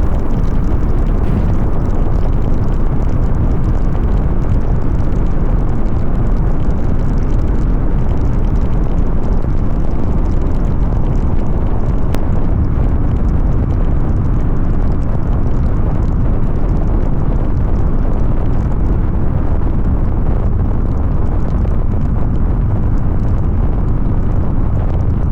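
Loud, steady wind and road rumble from riding a motorcycle at speed.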